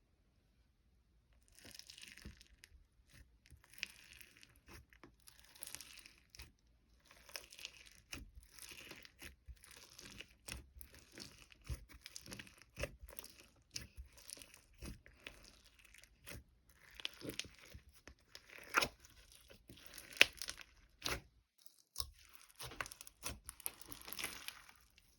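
Crinkling and rustling handling noise, with many small clicks and taps, starting about a second and a half in and pausing briefly near the end.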